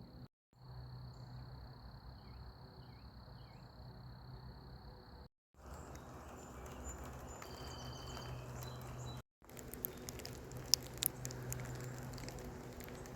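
Evening outdoor ambience of insects, a steady high drone with a few short bird chirps, broken by abrupt cuts into separate short takes. In the last few seconds scattered sharp ticks come in.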